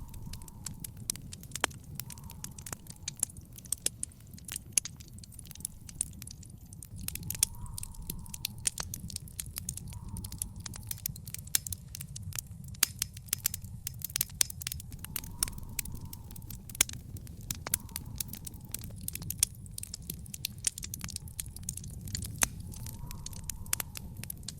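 Wood fire in an outdoor fire pit crackling, with frequent sharp pops and snaps over a low steady rumble.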